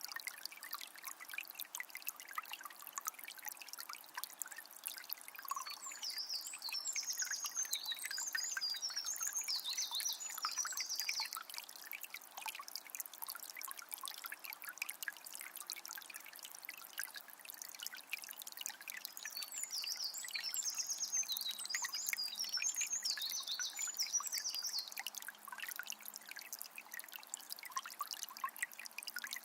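Water from a small spring trickling and splashing steadily. A songbird sings twice over it, about six seconds in and again about twenty seconds in, each song lasting several seconds.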